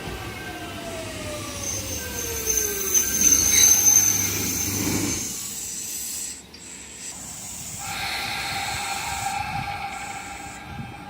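Electric train slowing, its motor whine falling steadily in pitch over the first few seconds, with a high squeal from the wheels at the loudest point. The sound drops off abruptly about six seconds in, and a steady high hum from the train follows.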